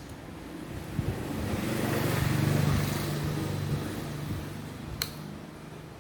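Low engine hum of a passing vehicle, swelling to its loudest about two seconds in and then fading, with one sharp click about five seconds in.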